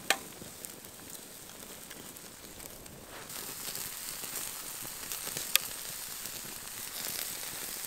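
Scrambled eggs in a non-stick pan and a steak on a wire grate sizzling over a campfire: a steady high hiss that grows louder about three seconds in, with one sharp pop a little past halfway.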